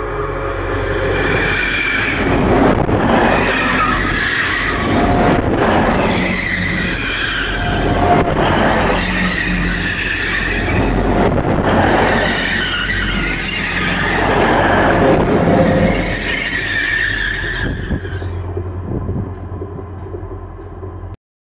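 Grand Central Class 180 diesel multiple unit rolling directly over a microphone between the rails: loud wheel-on-rail rumble and clatter that swells every two or three seconds as each bogie passes overhead, with high squealing tones through it. It fades away near the end as the last car clears.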